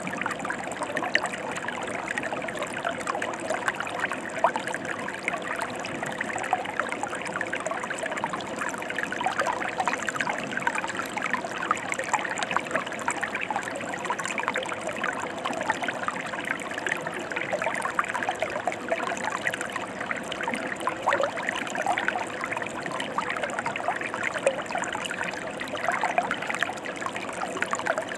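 A mountain stream running: a steady rush of water, dense with small quick splashes.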